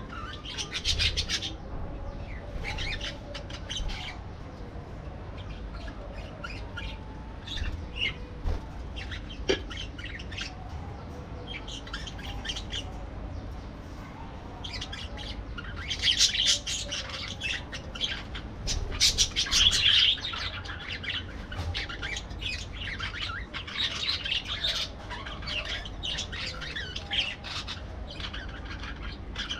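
Parakeets chirping and squawking in quick bursts of rapid high calls, with short pauses between. The busiest, loudest chatter comes a little past halfway through.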